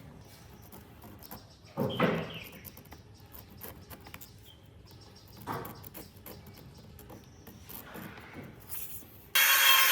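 A few separate knocks and thumps, the loudest about two seconds in, then near the end a power tool starts abruptly and runs steadily, cutting or sanding wood.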